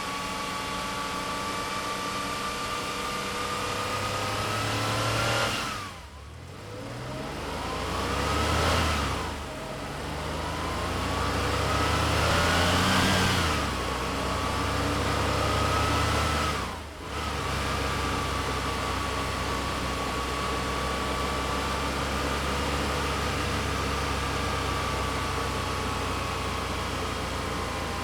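A 1976 Porsche 911S's air-cooled 3.2-litre flat-six engine pulling through the gears: the revs climb and break off for a gear change three times over the first thirteen seconds or so. It then runs at a steady cruise, with a brief lift off the throttle about seventeen seconds in.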